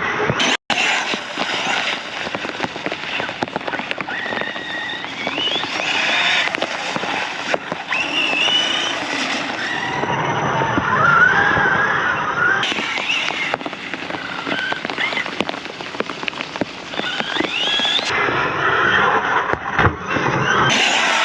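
Arrma Big Rock 6S RC monster truck driving through standing water: its brushless electric motor whines up and down in pitch as it accelerates and slows, over steady splashing and spray from the tyres.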